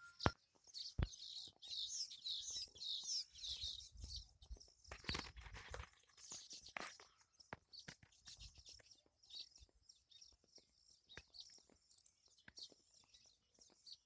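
Faint high-pitched bird chirping: a quick run of twittering in the first few seconds, thinning to scattered faint chirps and ticks in the second half, with a few soft knocks.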